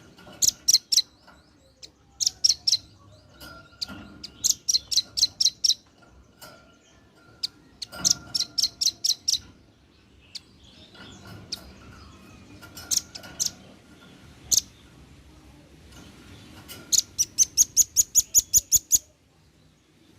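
Male velvet-fronted nuthatch calling in rapid runs of sharp, high chips, several bursts of three to eight notes, and a longer run of about a dozen near the end.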